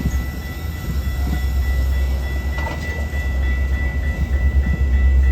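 Train rolling past: a heavy low rumble that grows slowly louder, with a thin steady high-pitched tone above it.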